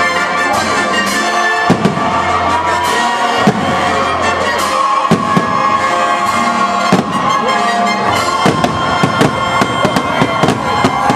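Aerial fireworks shells bursting over music played for the show. The bangs come every second or two at first, then crowd together into a rapid volley in the last few seconds.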